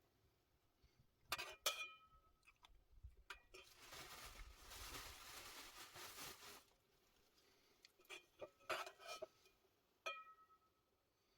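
Quiet camp sounds: a few light metallic clinks that ring briefly, like camp cookware or utensils being handled, and a soft hiss lasting about three seconds in the middle.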